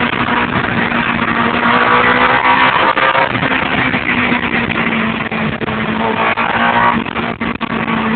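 Ferrari 360 Modena's 3.6-litre V8 engine running hard at fairly steady revs, heard from inside the cabin over road and wind noise, with a brief break in its tone about three seconds in.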